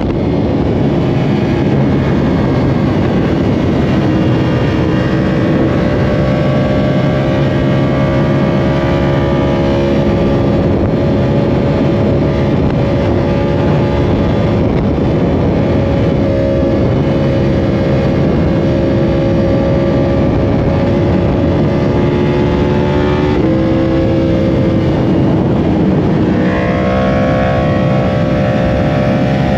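Yamaha R1 inline-four engine running at speed under a steady rush of noise, its revs creeping slowly upward. The engine note dips briefly about 23 seconds in, then jumps up sharply to a higher pitch about 26 seconds in.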